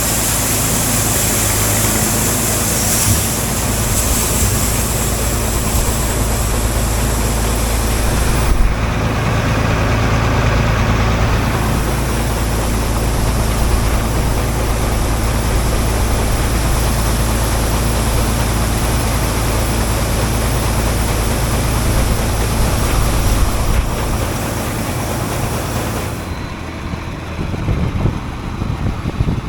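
Heavy harvest machinery engine running steadily under a loud hiss. The hiss thins and the sound drops somewhat near the end.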